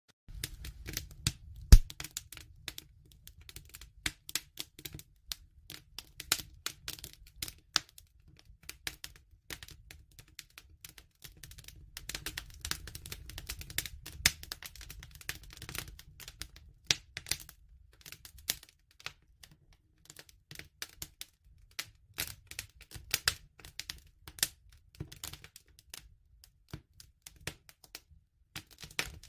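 Wood fire crackling: a steady stream of irregular snaps and pops over a low rumble, with one sharp, louder pop about two seconds in.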